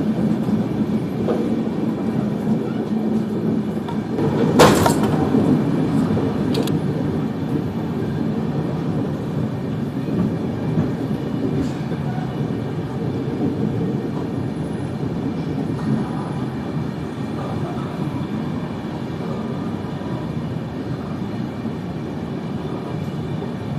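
Passenger express train running on the rails: a steady rumble of wheels on track, with a sharp clank about five seconds in and a lighter one shortly after, the rumble slowly growing quieter.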